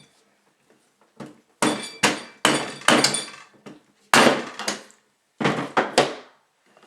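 Metal parts of a Bostitch N88 pneumatic framing nailer knocking and clanking as it is taken apart, about eight sharp knocks, some ringing briefly.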